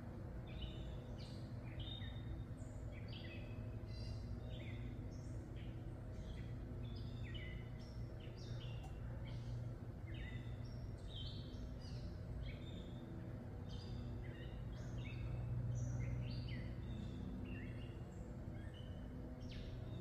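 Birds chirping with many short, quick notes over a steady low hum.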